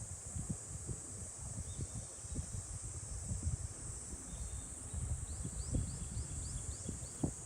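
A steady, high-pitched chorus of insects, with a bird giving a quick series of about seven short rising calls near the end. Irregular low thumps and rumble run underneath.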